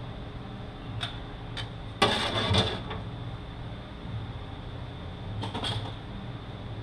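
Work-handling noises on a transmission on the bench: a couple of light clicks, then a louder clatter lasting under a second about two seconds in, and another short rattle near the end, over a steady shop hum.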